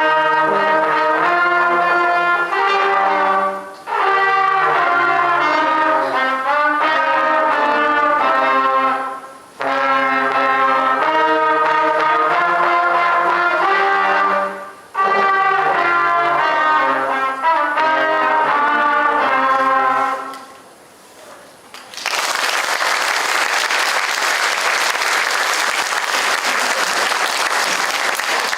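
A small student brass ensemble plays a folk tune in phrases, with brief gaps between them, finishing about twenty seconds in. After a short pause the audience applauds.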